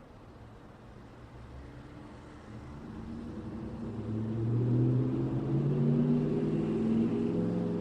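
Street traffic with one motor vehicle's engine growing louder from about two and a half seconds in and running close by in the second half, its pitch shifting slightly as it moves, over a low traffic rumble.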